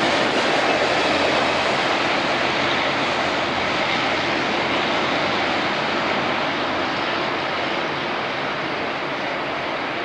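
Loram maintenance-of-way train rolling past with a steady mechanical roar that slowly fades as it moves away, its higher hiss dying off over the second half.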